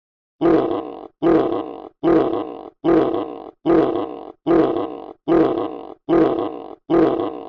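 An animal's short grunting call, played as a sound effect and repeated nine times in identical copies at an even pace of just over one a second, each call cutting off sharply.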